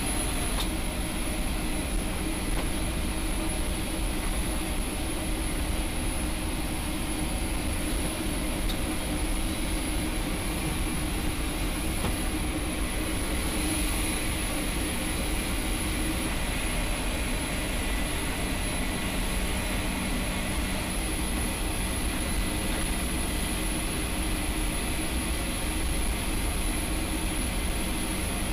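The four-engine turboprops of an HC-130J running steadily: a constant engine drone with a high, steady whine above it.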